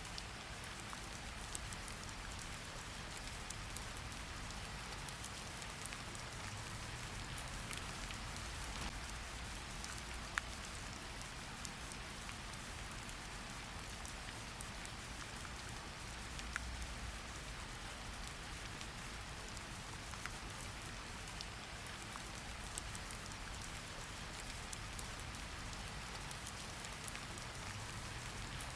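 Steady rain falling, an even hiss with scattered individual drop ticks, a couple of them sharper and louder, about ten and sixteen seconds in.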